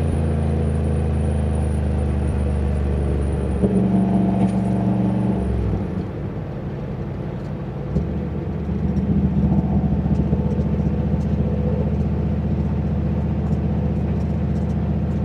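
Turbocharged 351 Windsor V8 of a Fox-body Mustang running under way through its mocked-up exhaust on the turbo downpipe. The engine note swells about four seconds in, eases off around six seconds, and picks up again about eight seconds in, then holds steady.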